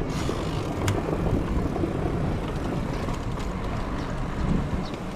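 Steady wind and road rumble of travel, with a single sharp click about a second in.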